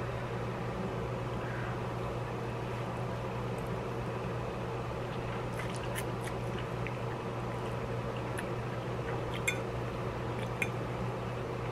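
A person slurping and chewing a mouthful of noodles: soft wet mouth sounds with small clicks, which become more frequent from about halfway in, over a steady low hum.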